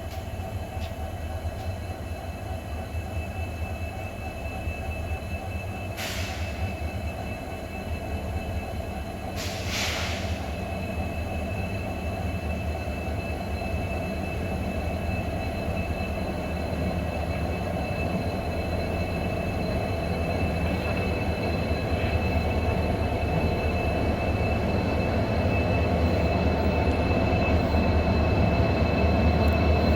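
A diesel-hauled train running with a steady rumble and thin, high squealing tones from the wheels, getting louder toward the end. Two short hisses come about six and ten seconds in.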